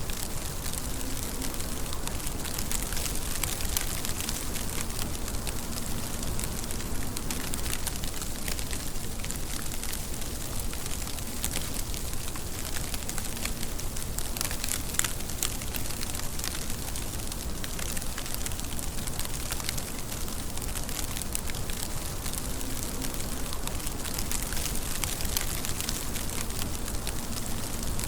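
Steady rain, heard as an even hiss with a dense crackle of individual drops striking a surface.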